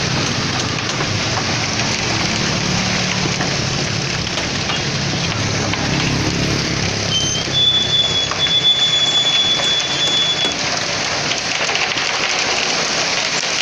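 Concrete mixer truck running, its engine low under a steady rushing hiss. About halfway through the engine sound fades and a thin high steady tone sounds for about three seconds.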